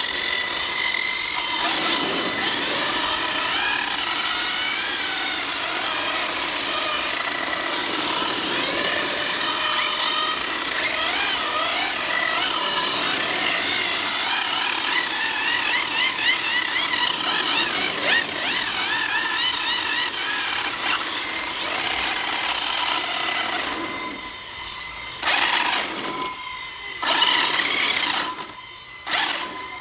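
Brushless electric motors of 1/8-scale RC drift cars whining, the pitch rising and falling as the throttle is worked, over a steady hiss. Near the end the sound drops away and returns a few times.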